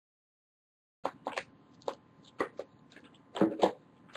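Dead silence for about a second, then scattered short clicks, taps and rustles of baseball cards being handled and sorted, with a louder pair of clicks near the end.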